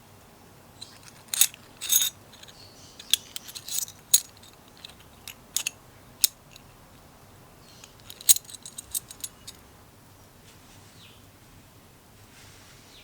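Small metal parts clicking and clinking as they are handled, in scattered clusters of sharp light taps, the busiest stretches near the start and again past the middle.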